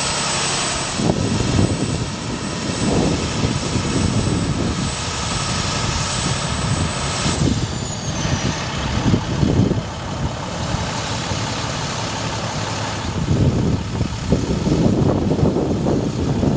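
Diesel engine of a 2008 International 4300 bucket truck running steadily, with irregular low gusts of rumble over it.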